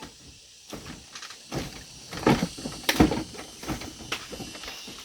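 A series of irregular knocks and clatters, the loudest about two and three seconds in.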